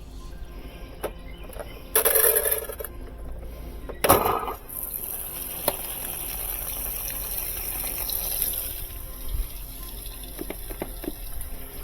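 Whirlpool direct-drive top-load washer filling with water, a steady rush of water into the tub that starts about four seconds in, after two short loud noises.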